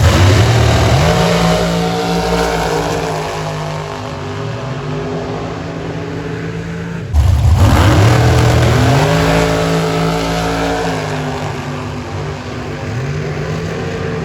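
Drag racing cars launching and accelerating down the strip: two runs, one starting right at the beginning and one about seven seconds in. Each starts suddenly and loud, rises in pitch, then fades as the car pulls away.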